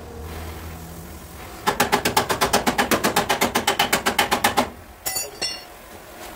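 Rapid, evenly spaced hammer taps on car body sheet metal, about eight a second for some three seconds, each one ringing. Two sharper metallic knocks follow.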